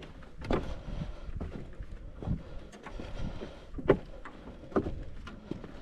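Footsteps knocking and scuffing irregularly along a hiking trail over a steady low wind rumble on the microphone, the sharpest step about four seconds in.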